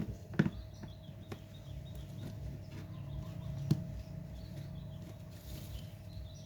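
A few sharp taps and clicks from a smartphone's small parts being handled on a work surface, the loudest about half a second in and another just before four seconds, over a steady low hum.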